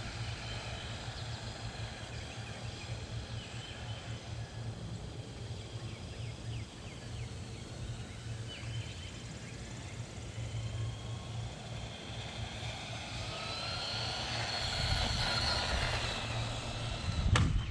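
Electric motor and gears of a 1/18-scale RC monster truck whining as it drives, the whine rising in pitch and getting louder over a few seconds near the end. A single sharp knock just before the end: the truck crashing at full throttle.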